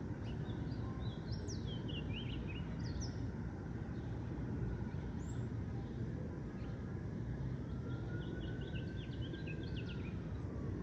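Steady low rumble of city traffic, with small birds chirping in quick runs of high notes. About two-thirds of the way in, a siren begins, gliding slowly up and then down.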